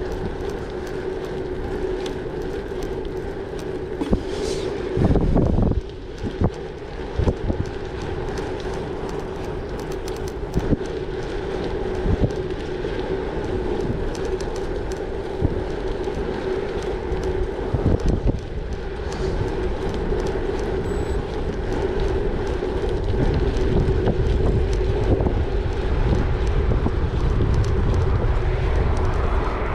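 Gravel bike rolling along at speed: a steady pitched hum from the tyres and drivetrain, with sharp knocks as the bike goes over bumps. Wind buffeting the microphone builds up over the last few seconds.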